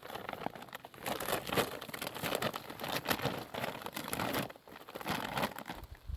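Plastic bags crinkling and rustling as they are handled, in irregular spells with a short pause about half a second in and another near the four-and-a-half-second mark.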